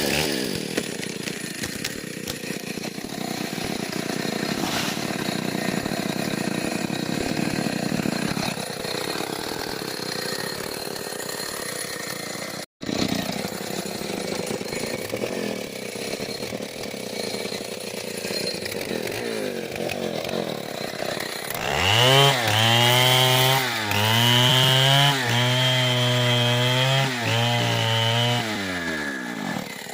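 Stihl 070 two-stroke chainsaw running and cutting wood, engine pitch rising and dipping as the chain bites. It cuts out for an instant about halfway through. In the last third it is louder and at high revs, the pitch sagging and recovering several times under load.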